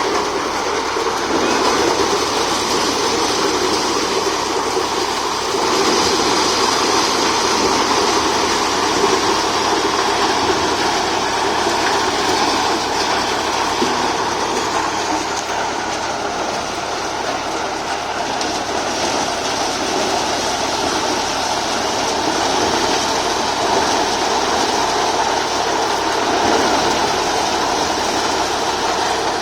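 Tractor-driven maize thresher running at steady speed: a continuous loud mechanical rattle and hum from the machine as it threshes the corn.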